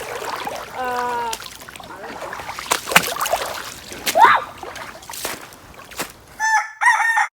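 Rooster crowing in several pitched calls, the last one high and cut off abruptly near the end.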